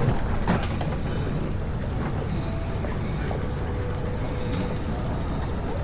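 Street noise in strong wind: a steady low rumble of wind on the microphone mixed with passing traffic, with a few sharp clicks near the start and a faint steady tone through the middle.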